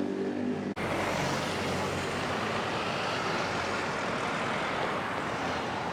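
Steady city street noise of road traffic, starting abruptly with a cut about a second in.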